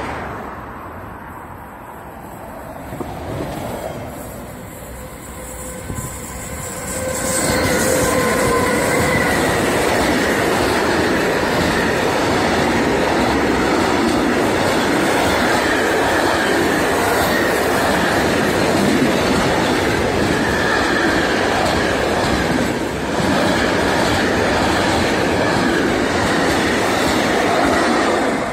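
Train passing close by on the rails: its noise rises sharply about seven seconds in and holds loud and steady for some twenty seconds, with thin steady squealing tones from the wheels over the rolling noise.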